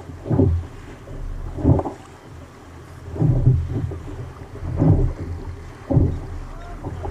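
Water splashing and slapping around a kayak in rough sea, coming in surges about every second and a half, with wind rumbling on the microphone.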